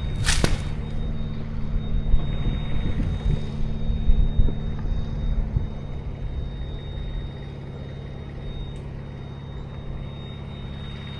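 An engine running steadily, with a loud, short burst of noise about half a second in and scattered knocks over the next few seconds; after about six seconds only the steady engine hum remains, a little quieter.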